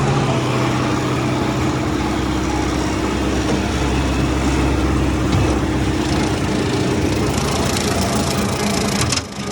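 Farm tractor engine running steadily under load while driving a rotary brush hog cutter through pasture.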